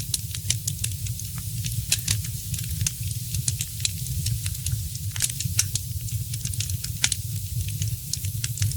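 Wood fire crackling, with frequent irregular sharp pops and snaps over a steady hiss and a low rumble.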